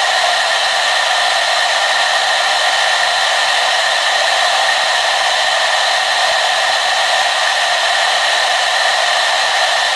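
Hair dryer running continuously at a steady speed, a constant rushing whir with a few fixed whining tones in it and no low rumble.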